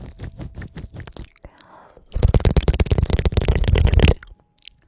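Close-miked ASMR mouth clicks, several a second, then from about two seconds in a loud, dense crackling scratch right on the microphone for about two seconds that stops abruptly.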